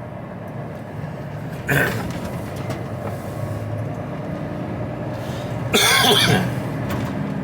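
Steady low hum of an HGV container lorry heard from inside the cab, broken by a short burst of noise near two seconds and a louder, longer burst about six seconds in.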